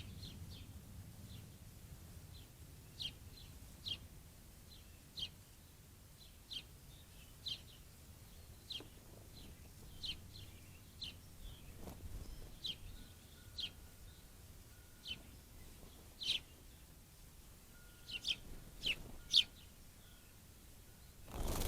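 House sparrows chirping: single short cheeps repeated at irregular intervals of about a second, several coming close together near the end.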